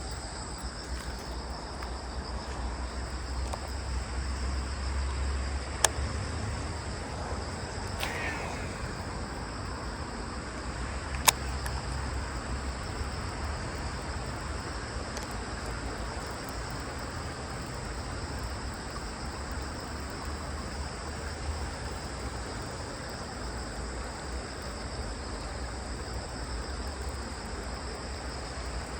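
Outdoor ambience of steady, high-pitched insect chirring from crickets, over a low rumble of wind on the microphone that swells and fades. Two sharp clicks break through, one about six seconds in and a louder one about eleven seconds in.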